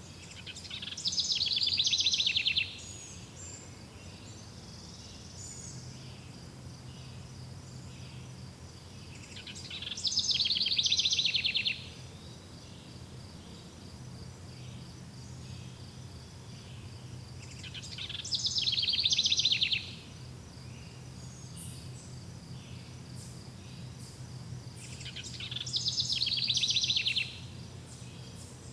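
Forest ambience: a loud, rapid high trill repeats four times, about every eight seconds. Each trill swells over about two seconds and stops abruptly, over a steady, high, pulsing chirr and a faint low hum.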